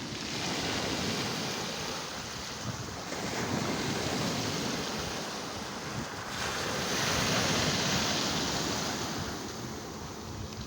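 Sea waves washing onto the shore, the surf swelling and easing about every three seconds, with some wind on the microphone.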